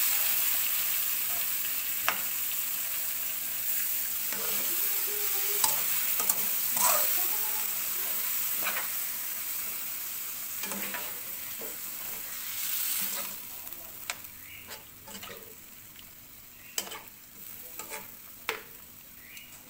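Chicken pieces with spices and tomato paste sizzling in a nonstick wok while being stirred and turned with a spatula, which scrapes and knocks against the pan. The sizzle slowly dies down, leaving separate sharp knocks of the spatula more distinct in the second half.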